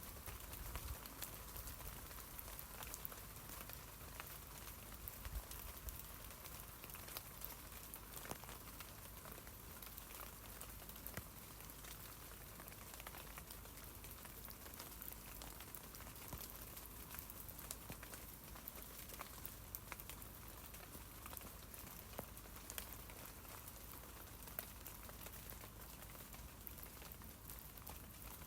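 Rain falling on tree leaves: a steady soft hiss dotted with many small, irregular drop ticks.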